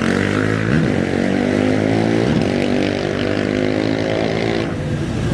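Off-road race vehicle engine running at a steady idle, blipped up in pitch and back twice, about one second in and again two and a half seconds in.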